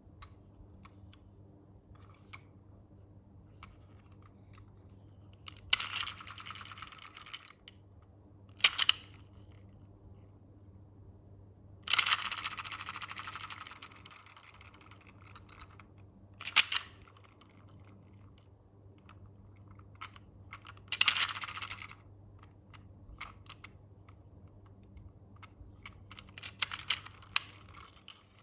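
Toy packaging being handled and opened: several short bursts of rustling and tearing, the longest about two seconds long, with small clicks and taps between them.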